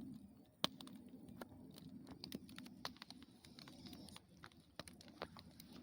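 Wood campfire crackling faintly, with irregular sharp pops and a louder snap under a second in.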